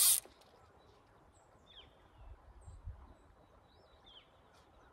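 Small birds chirping now and then in short, high calls over a faint low rumble, with a brief loud burst of noise right at the start.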